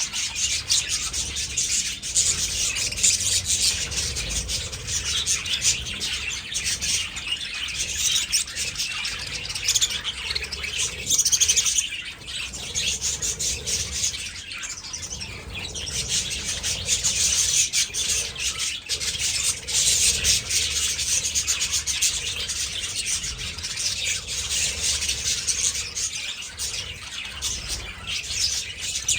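A flock of budgies chattering and chirping continuously, many birds calling over one another.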